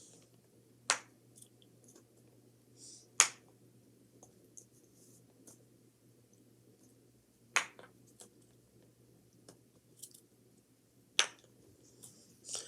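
Four sharp clicks spaced a few seconds apart, with a few fainter ticks between them, over a faint steady hum.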